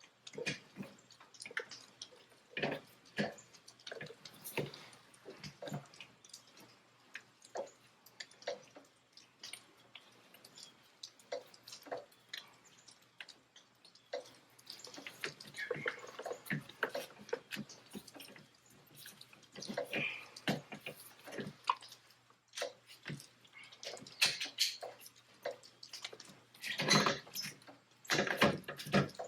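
Irregular light clicks and knocks of hand work around an engine: a compression tester's adapter and hose being fitted into a spark plug hole.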